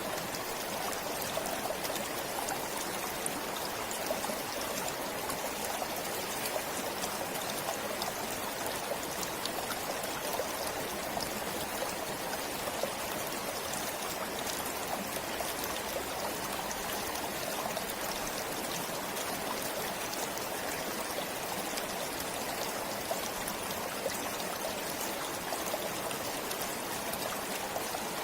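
A forest stream flowing steadily over stones, a constant trickling and babbling of water that does not change.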